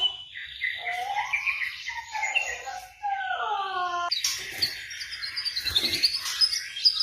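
White-rumped shama (murai batu) singing: rich whistled phrases that slide down in pitch, turning about four seconds in to a faster, higher run of chattering notes.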